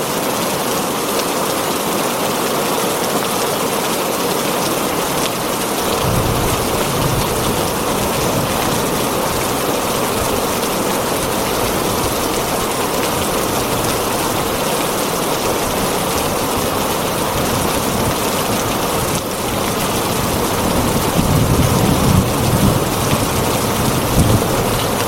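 Heavy rain falling on a tin roof in a steady hiss. Low rolls of thunder come in about six seconds in and grow louder near the end.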